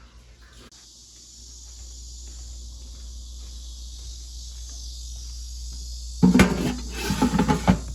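A steady high-pitched hiss over a low hum, then about six seconds in a loud clatter of kitchen utensils and cookware with some ringing, lasting about a second and a half.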